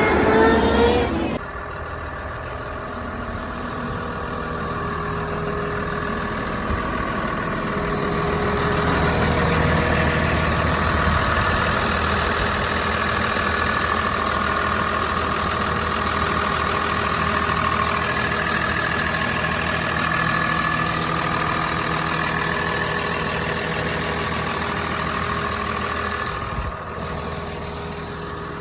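Caterpillar 938M wheel loader's diesel engine running steadily, with a whine riding above the engine note. It starts with a short rising whine that breaks off, grows louder several seconds in, and eases off near the end.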